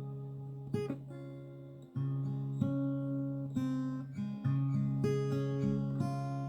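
Background music: acoustic guitar plucked and strummed, with chords changing about once a second.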